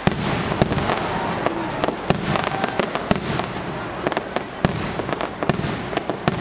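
Fireworks display going off: many sharp pops and cracks at irregular intervals over a continuous rushing noise of bursts and crackle.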